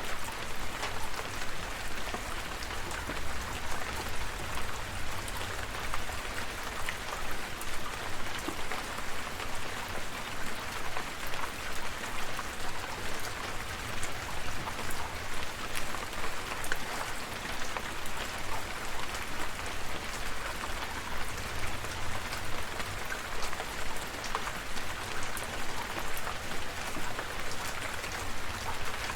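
Steady rain falling, with many individual drops pattering sharply on a hard surface over a continuous hiss and a low rumble underneath.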